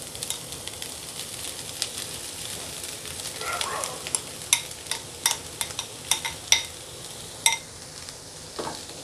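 Ground soya chunks sizzling in oil in a non-stick kadhai with onion, ginger and carrot as they are tipped in and stirred with a silicone spatula. From about three seconds in comes a run of sharp taps as the last of the mince is knocked out of a glass bowl with a spoon.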